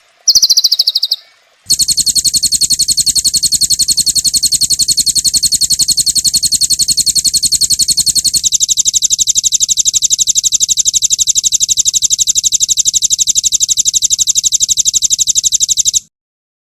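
Songbird 'tembakan' song: a short high call, then a long, fast, evenly repeated string of high notes like rapid fire, which drops to a slightly lower tone about halfway and cuts off suddenly near the end.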